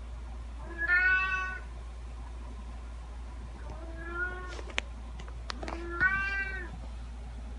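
A domestic cat meowing three times, each meow under a second long, with a few sharp clicks between the second and third meows over a low steady hum.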